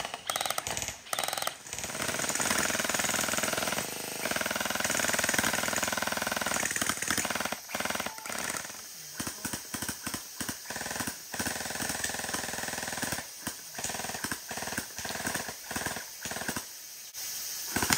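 Electric gel blasters firing on full-auto, a rapid mechanical rattle from the motor-driven gearbox. Long, nearly continuous strings give way about halfway through to many short bursts.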